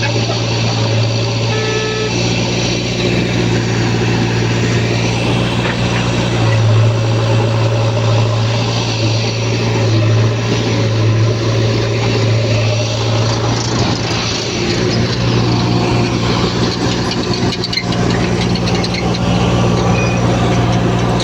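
Heavy diesel engine of a JCB 3DX backhoe loader running steadily while working, a loud continuous low hum with mechanical clatter over it; the engine note grows stronger about six seconds in and eases off around thirteen seconds.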